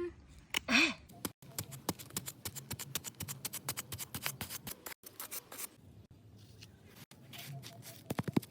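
A rapid run of sharp clicks or snips, several a second, that thins out after about five and a half seconds.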